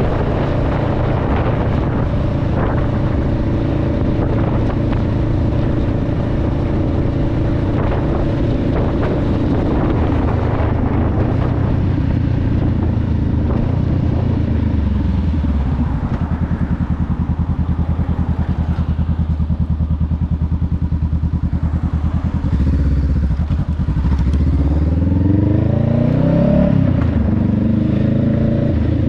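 2021 Honda Rebel 500's parallel-twin engine and exhaust under way: a steady cruise, then the note falls as the bike slows and runs low for several seconds, then rises again as it pulls away, with a shift near the end.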